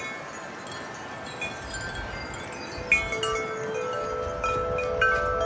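Wind chimes ringing in the wind: a few light strikes at first, then more frequent strikes from about three seconds in, with lower tubes joining and ringing on over one another. A rush of wind lies underneath.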